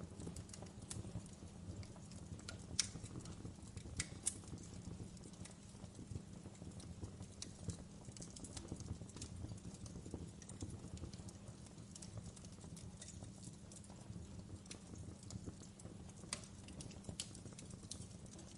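Wood fire burning in a fireplace: a steady low rumble of the flames with irregular crackles and sharp pops of the burning logs, the loudest pops about three seconds, four seconds and sixteen seconds in.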